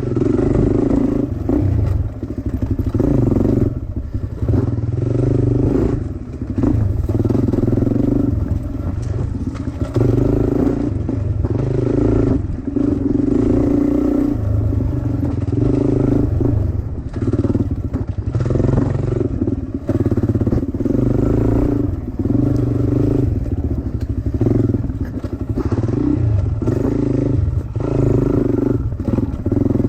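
Dirt bike engine being ridden hard, its note rising and dropping again and again as the throttle is opened and closed, with occasional knocks and clatter from the bike.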